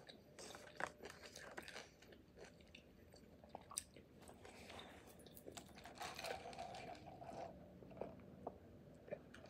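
Faint close-up chewing with scattered small crunches.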